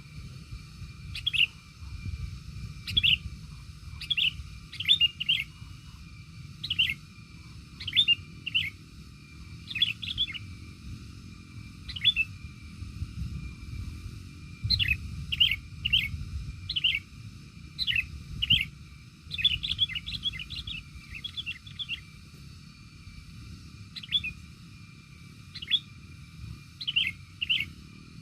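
A bird calling with short, sharp chirps in irregular runs, a few every couple of seconds and a quick cluster about two-thirds of the way through, over a steady low rumble.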